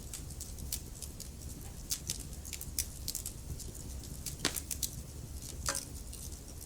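Wood fire crackling in a fireplace: scattered sharp pops and snaps, with two louder pops about four and a half and nearly six seconds in, over a low steady rumble of the flames.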